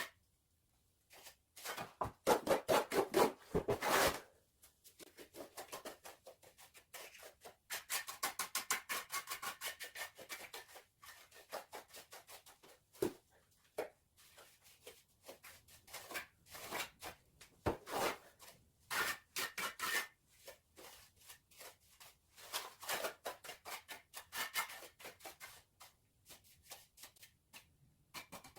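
Repeated quick scraping and rubbing strokes of a trowel working cement mortar over a rough surface, in bursts of a few seconds with short pauses. The strokes are loudest two to four seconds in.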